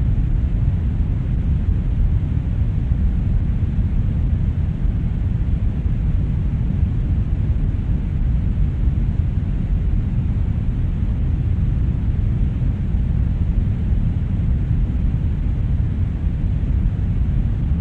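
Steady brown noise: an even, unchanging rush, deep and strongest in the bass, growing fainter toward the highs.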